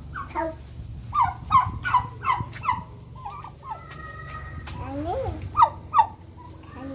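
Domestic fowl calling: a run of short, falling calls, about three a second, then two more near the end.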